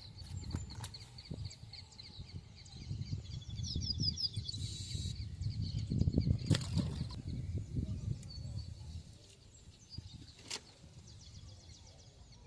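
Small birds chirping in quick runs of short high notes over a low, fluttering rumble, with a few sharp clicks. The rumble fades about two-thirds of the way through.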